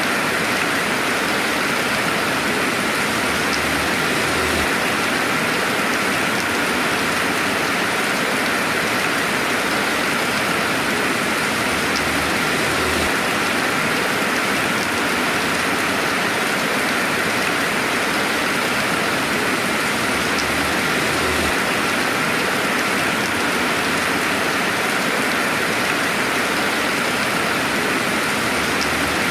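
Steady rainfall: a dense, even hiss of many drops with no thunder, unchanging throughout.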